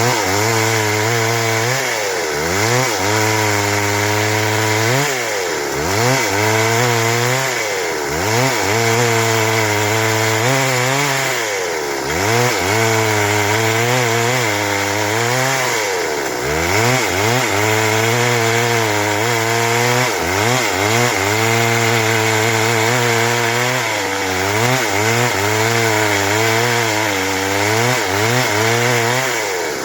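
Stihl MS 382 two-stroke chainsaw cutting wood at high revs, its engine pitch dropping and climbing back every few seconds as the chain takes and sheds load in the cut.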